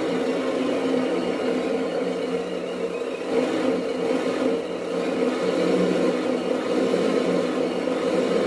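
Tamiya Scania RC truck tractor unit running with a steady, even hum that dips a little midway.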